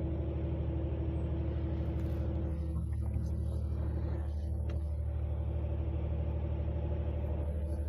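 Engine idling steadily: a low, even rumble with a quick regular pulse, and a few faint clicks over it.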